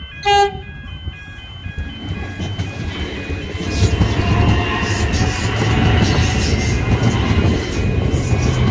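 A High Capacity Metro Train sounds a short horn blast, then its wheels and running gear rumble past, growing louder from about three and a half seconds in.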